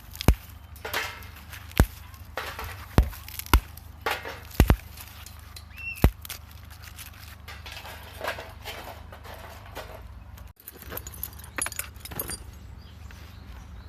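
A series of sharp snaps or knocks, about seven in the first six seconds, followed by softer rustling and handling noise.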